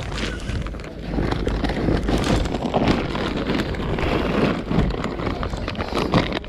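Wind buffeting the microphone, a steady low rumble, with rustling and clicking handling noises.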